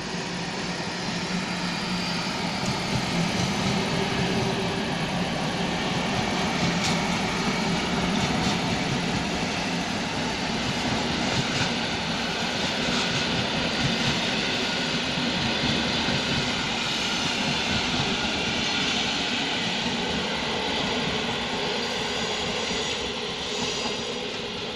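Passenger train passing on the line: a steady rumble of wheels on rails with a low hum, swelling at the start and easing off near the end.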